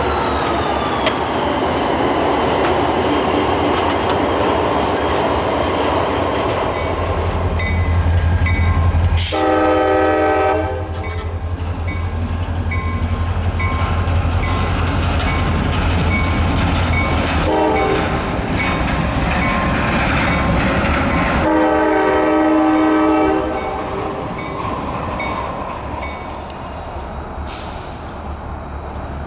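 CSX diesel freight locomotives running past, engines rumbling with tank cars rolling over the rails, while the lead unit sounds its multi-chime air horn in three blasts, a short one about nine seconds in, a brief one near eighteen seconds, and a longer one a few seconds later.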